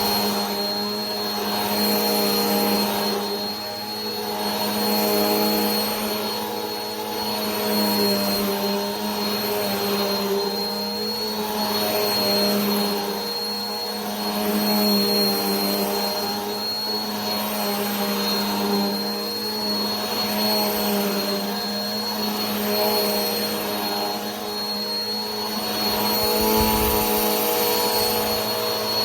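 Vacuum cleaner running continuously: a motor hum with a thin, steady high whine, its loudness swelling and easing every two seconds or so.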